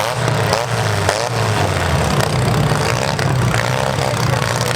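Several small-car engines in mini-class demolition derby cars idling, with a few quick revs in about the first second.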